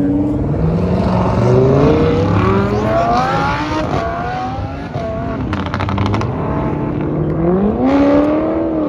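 Car engines revving hard, their pitch climbing again and again, with one steep rev up and drop near the end.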